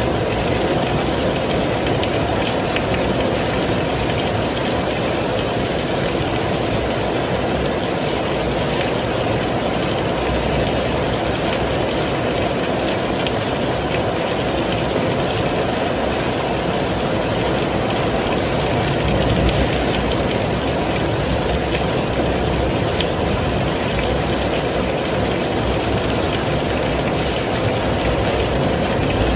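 Heavy rain falling steadily: a dense, even hiss with a deep rumble beneath it, unchanging throughout.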